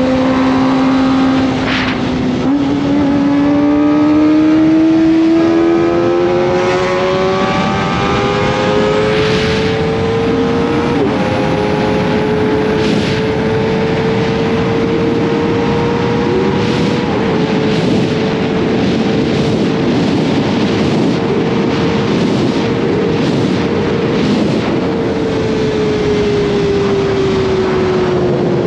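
Kawasaki ZX-25R's 250 cc inline-four engine running under way. Its pitch climbs steadily over the first ten seconds, holds high with a few brief dips, and falls away over the last few seconds.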